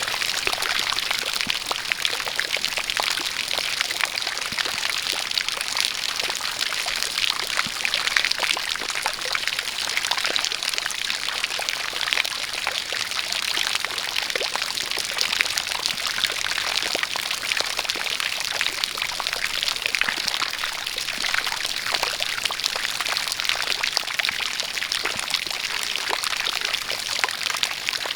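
A jet of water pouring and splashing steadily, mixed with falling rain: an even rushing hiss full of small droplet splashes.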